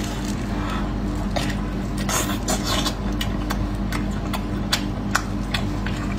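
Close-miked chewing of boiled beef: wet smacking and many short clicking mouth sounds, over a steady low hum.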